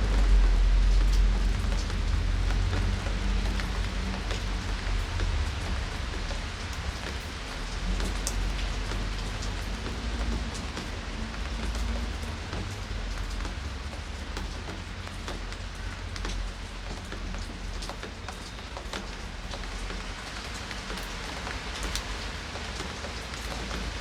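Steady rain falling, with scattered individual drops ticking on surfaces and a low rumble underneath that eases after the first half.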